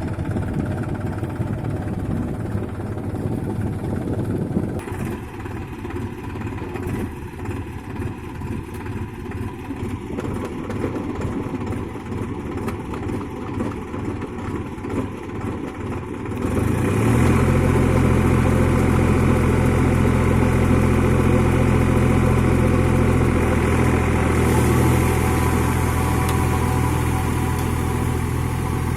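New Holland 4710 tractor's diesel engine running. About 16 seconds in it gets clearly louder and settles into a strong, steady low drone.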